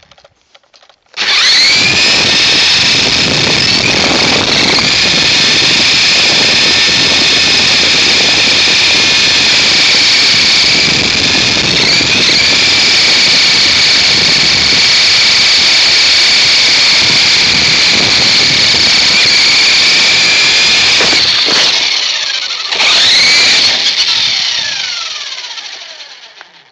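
Small electric RC helicopter's motor and rotors whining loudly at a high, steady pitch as it flies carrying a cell phone. About 22 seconds in the whine cuts out for a moment, spins back up, then winds down and fades near the end.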